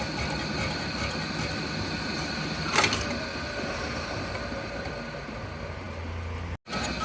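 Workshop machinery running steadily with a mechanical hum, and one sharp metallic knock about three seconds in.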